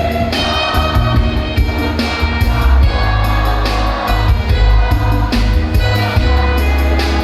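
A high-school choir singing with instrumental accompaniment, over a heavy, continuous low bass.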